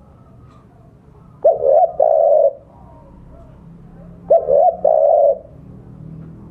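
Spotted dove cooing: two phrases about three seconds apart, each a short note followed by a longer held coo. This is the two-note 'kuk 2' call that a male uses to challenge a rival, played here as a lure.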